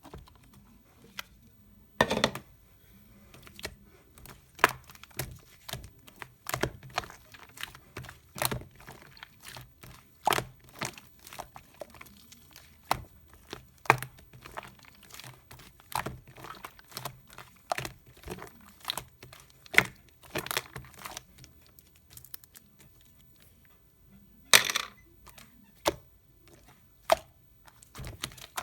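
Slime being squished and stretched by hand, giving irregular pops and crackles, with a louder pop every second or two.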